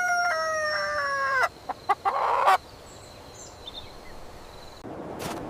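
Rooster crowing: the drawn-out end of a cock-a-doodle-doo that falls in pitch and stops about a second and a half in, followed by a short rough call. A different, noisy sound begins near the end.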